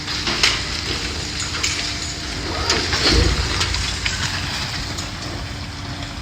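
Engine of a demolition machine running steadily, with scattered cracks and clatter of debris being broken and a heavier crunch about three seconds in.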